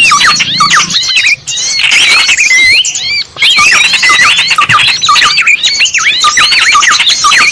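Loud, continuous chatter of small birds: rapid, overlapping swooping and looping calls from a bird-luring (pikat) recording, with short breaks about one and a half and three seconds in.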